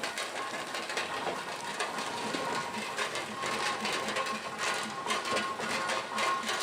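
Fowler compound steam ploughing engine running, giving a steady rhythmic mechanical clatter of light clicks and knocks.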